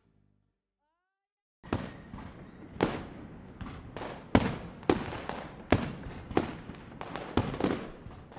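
Fireworks going off: a string of sharp bangs at irregular intervals, roughly one or two a second, each with a crackling tail. They start about a second and a half in, after a moment of near silence.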